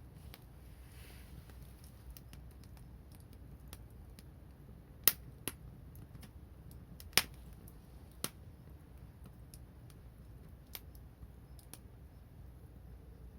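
Wood fire crackling: scattered sharp pops, the two loudest about five and seven seconds in, with a few fainter ones, over a faint low rumble.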